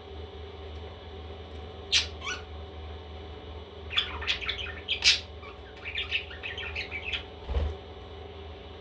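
Baby parrots squawking: a sharp call about two seconds in, then two bursts of rapid chattering calls, over a steady low hum. A short low thump comes near the end.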